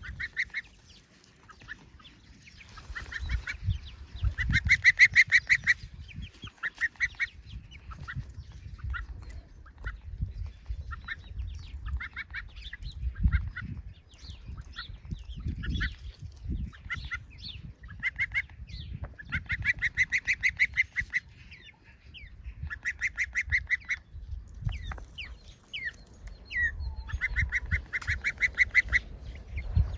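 A gosling and a hen calling, in runs of quick, chattering notes lasting a second or two, repeated several times.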